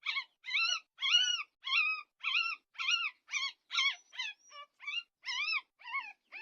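Puppy crying in a fast series of high-pitched yelps, about two a second, each rising and then falling in pitch: distress at being bathed.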